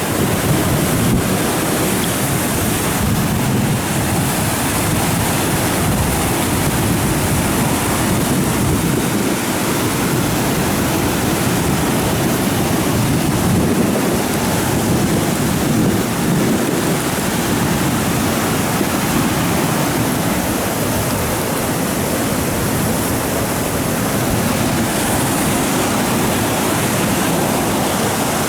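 Steady rushing noise of a tropical-storm downpour: heavy rain and running water, with wind on the microphone.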